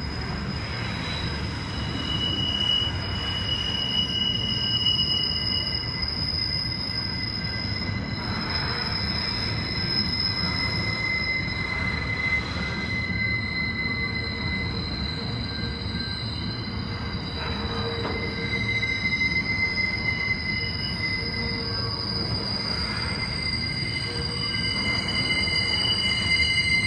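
Covered hopper wagons of a freight train rolling slowly past, their wheels squealing on the rails: several high, steady squeals that fade in and out over a constant low rumble of wheels on track.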